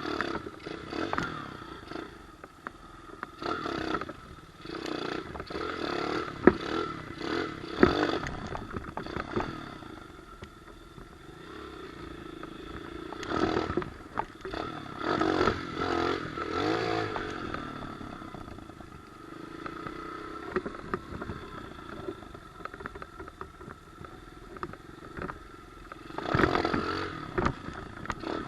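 Pit bike engine running and revving in uneven bursts as it is ridden, with a few sharp knocks and rattles.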